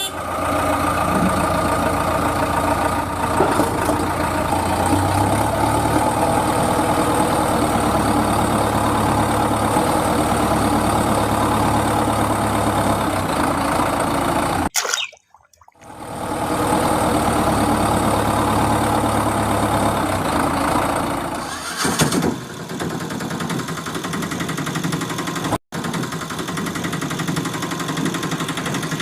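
A vehicle engine idling steadily. It cuts out abruptly about halfway through, then comes back; it changes about 22 s in, and there is a brief break a few seconds later.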